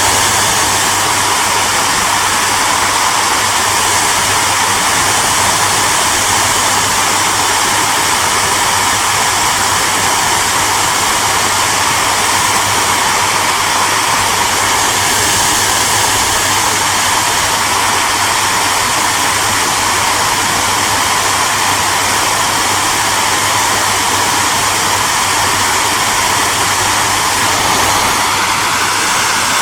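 Hair dryer running steadily, a constant rushing blow of air over a low motor hum, with a faint high whine.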